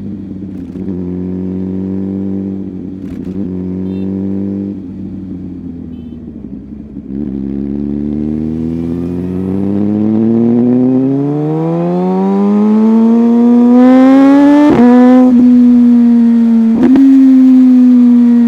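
Motorcycle engine running at a steady note, then accelerating from about seven seconds in, its pitch climbing for several seconds and holding high. There are two brief dips in the note near the end.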